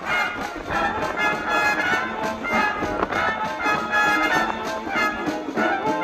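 Wind band playing, with brass instruments and woodwinds sounding together.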